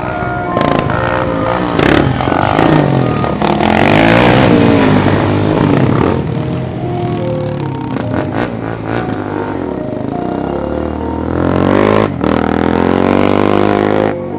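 Off-road vehicle engines revving hard, their pitch climbing and dropping several times as they pass, with music playing underneath.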